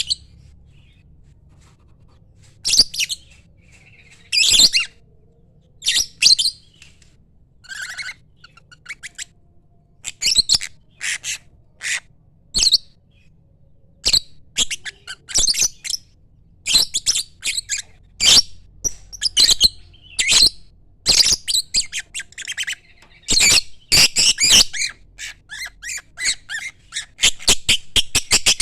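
Lovebird calling in shrill, short chirps and squawks, in scattered bursts that come faster and closer together in the second half.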